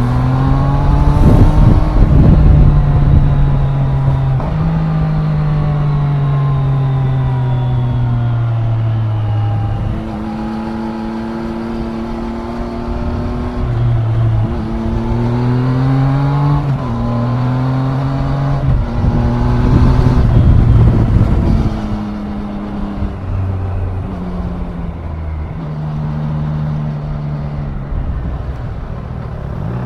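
2024 Triumph Daytona 660's three-cylinder engine pulling and easing off on the road, its pitch climbing and then dropping again as it changes gear several times. Loudest a couple of seconds in and again about twenty seconds in.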